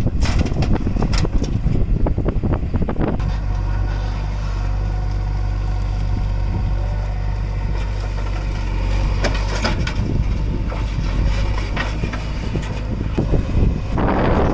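A heavy diesel engine runs steadily under earthmoving work. There is crunching, clattering noise in the first three seconds and again near the end.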